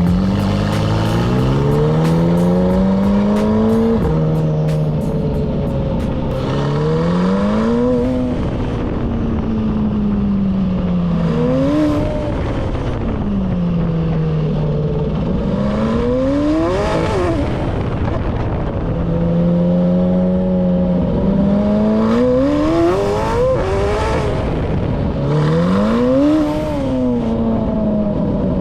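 Performance car engine accelerating hard, its pitch climbing then dropping sharply at each upshift, with stretches where it eases off and the pitch slides down before it revs up again.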